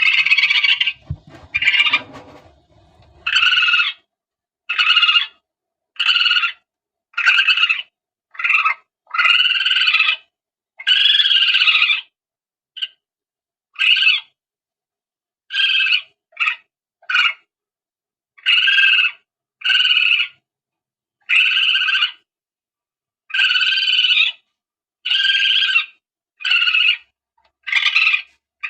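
Palm civet lure call: a long run of short, squealing calls, each a pitched cry lasting under a second to about a second and a half, repeated at irregular intervals with dead silence between them. Low handling rumble sounds under the first few calls.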